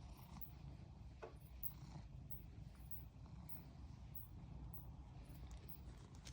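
Domestic cat purring close up, a low steady rumble, with one brief falling squeak about a second in.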